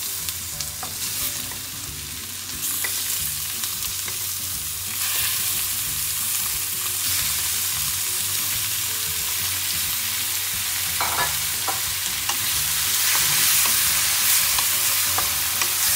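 Raw chicken pieces sizzling as they go into hot oil with sautéed onion, garlic and ginger in a metal pan, stirred with a wooden spoon. The sizzle grows louder about five seconds in and again near the end, with a few knocks of the spoon against the pan.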